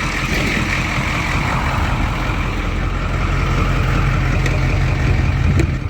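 Truck engine, an old school bus motor, running steadily just after a cold start.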